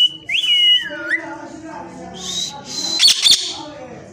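Pet parrot whistling: high whistled notes that hold, then glide down about a second in, then rise again, with a pair of sharp harsh squawks about three seconds in.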